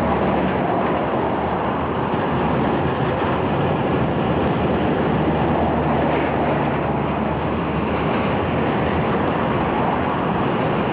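Freight train of car-carrier wagons rolling past, a steady, even rolling noise of the wagons on the rails.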